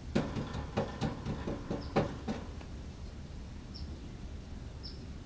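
A quick run of about ten short clicks and knocks, then three faint, short, high chirps from small wild birds in the trees.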